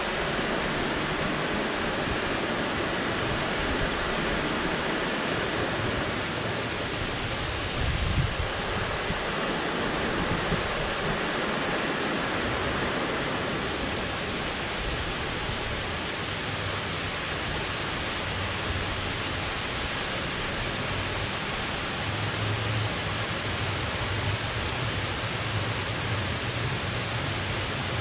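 Water rushing steadily from a dam into the river below, a dense even rush. A brief low thump about eight seconds in.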